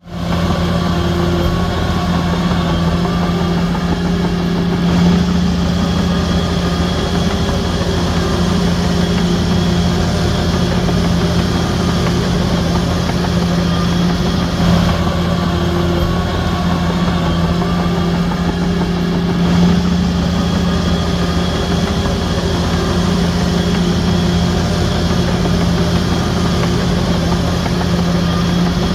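Heavy diesel engine of a bulldozer running steadily at a constant pitch, with a strong low hum and small swells in level.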